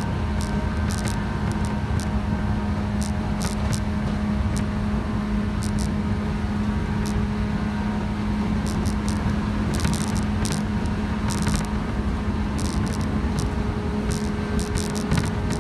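A JR West 117 series electric train running at speed, heard from inside the car: a steady drone with a strong low hum, and scattered sharp clicks and rattles throughout.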